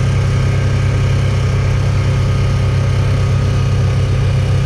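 Vehicle engine running steadily with a constant low hum, heard from on board while driving slowly.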